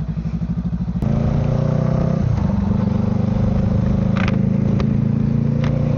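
Honda Rebel 500's parallel-twin engine, at first running with an even pulse, then running steadily at a fuller note from about a second in. The note dips briefly about two seconds in.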